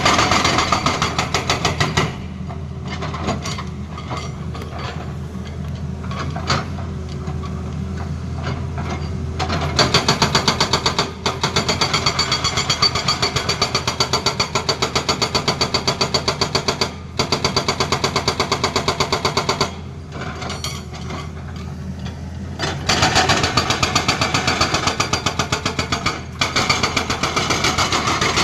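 Hydraulic rock breaker on a Tata Hitachi excavator hammering in rapid, even blows, in bursts of several seconds with short pauses, over the excavator's steady diesel engine. The longest run of hammering starts about ten seconds in, and another starts near the end.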